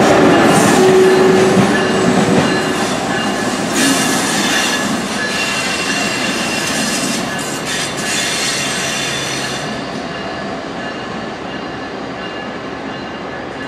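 Amtrak trains, an Acela Express trainset and ACS-64 electric locomotives, rolling over curved switchwork with steel wheels squealing in thin high tones over the rumble of the wheels. The noise is loudest at the start and fades as they move off, and the squeal dies away about ten seconds in.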